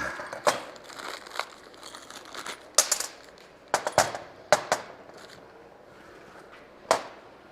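Scattered clicks and knocks of caster parts being handled and fitted to a steel engine stand.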